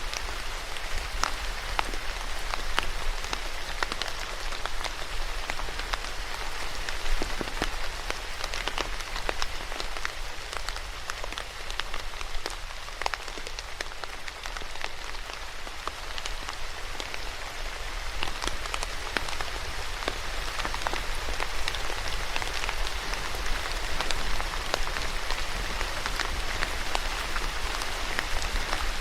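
Steady rain falling on a surface, a continuous hiss with many individual drops ticking and pattering through it.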